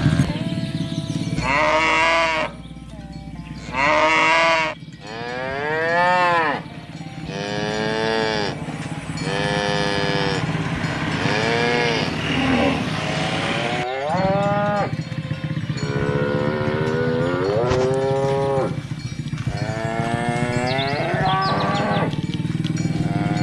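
A herd of cattle mooing, one call after another with some overlapping, about a dozen moos in all, several bending up and down in pitch.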